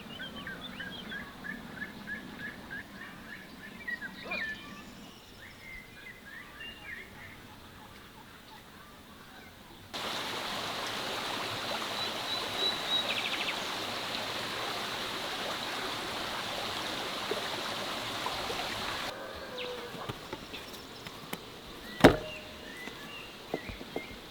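Outdoor rural ambience in edited segments: birds chirping in short repeated calls, then after an abrupt cut a steady rushing noise like running water, then quieter again with a single sharp knock near the end.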